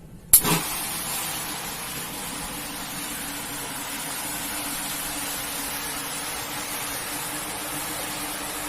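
A water pump motor switches on with a sharp click and then runs steadily, with a loud, even hiss of water spraying onto the carpet.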